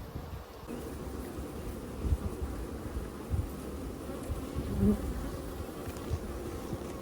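Honeybees buzzing steadily around an open hive, with a few low knocks from handling and one bee buzzing close and loud about five seconds in.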